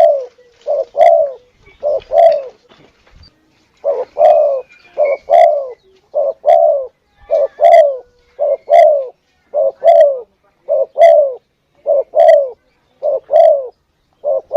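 Spotted dove (tekukur) cooing as a hunting lure call: short two-part coos repeated about once a second, with a brief pause about three seconds in.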